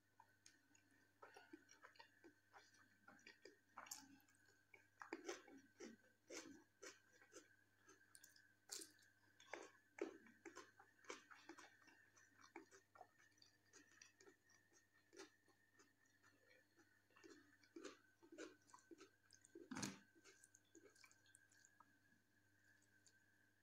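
Close-miked chewing and wet mouth sounds of a person eating rice and jackfruit curry by hand: an irregular string of soft smacks and clicks, over a faint steady high whine.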